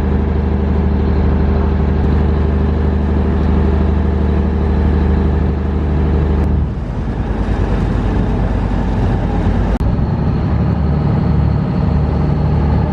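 A ferry's engine running steadily with a low, pitched hum. The sound changes abruptly twice, about six and a half and ten seconds in.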